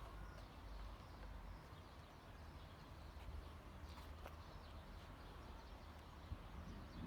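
Near silence: a faint low outdoor rumble with a few faint scattered ticks, no firework bangs.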